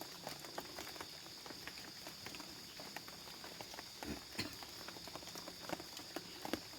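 Light, irregular taps of rain drops pattering and dripping around a camp shelter, over a steady high-pitched drone of night insects.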